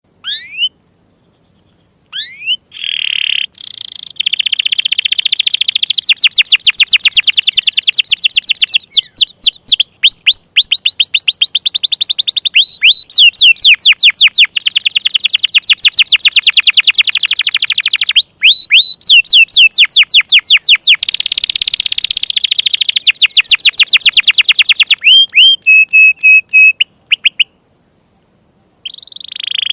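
Domestic canary singing loudly in long rolling trills: runs of rapid repeated whistled notes that change pace and pitch from phrase to phrase, with a pause of about a second near the end.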